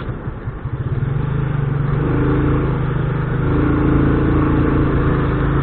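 Motorcycle engine running while ridden, growing louder as it picks up speed about a second in, then holding a steady note.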